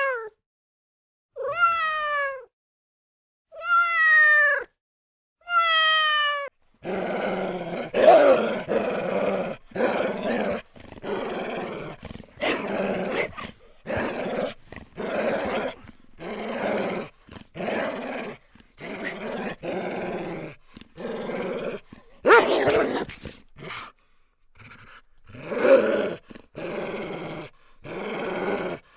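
A cat meowing, with three separate drawn-out meows in the first seven seconds. Then a different animal takes over with rough, rapidly repeated calls that run with short breaks to the end.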